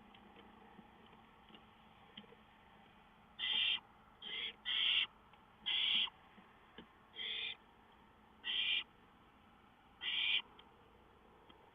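Barn owl calling from the nest box: seven short rasping calls in an irregular series, starting a few seconds in.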